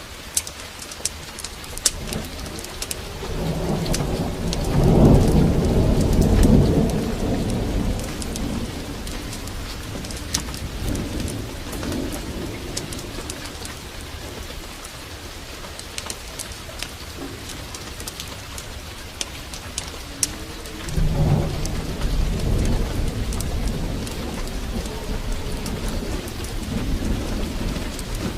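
Heavy rain falling steadily with scattered sharp clicks, and two long rolls of thunder, the first about three seconds in and the second about twenty-one seconds in.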